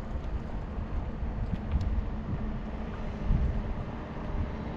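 Wind buffeting the microphone while riding a bicycle, a steady low rumble that swells and eases.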